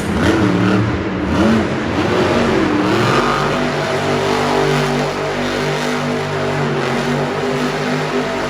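Monster truck's supercharged V8 engine revving, its pitch swinging up and down for about three seconds, then holding steady at high revs.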